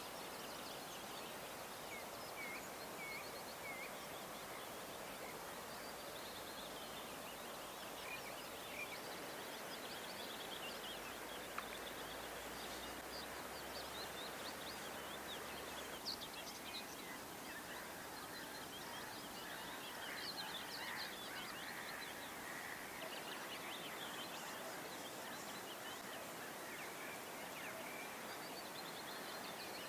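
Small birds calling in short, scattered chirps over a steady outdoor background hiss.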